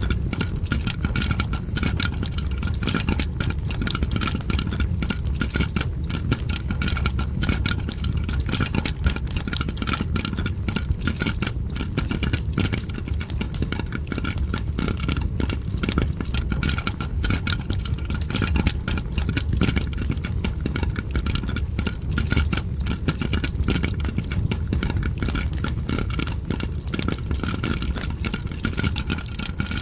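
Popcorn popping and fireplace crackling: dense, continuous pops and crackles, many a second, over a steady low rumble.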